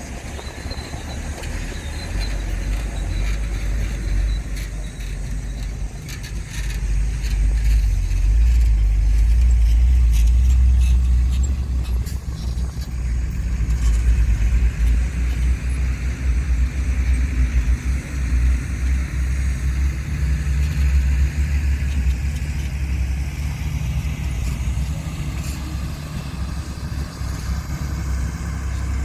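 Diesel engine of heavy earthmoving machinery running with a deep rumble. It swells about a quarter of the way in and then rises and falls unevenly.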